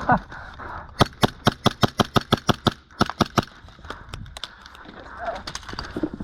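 Airsoft gunfire: a quick string of sharp snapping shots, about six a second, from about one second to three and a half seconds in, then scattered single shots.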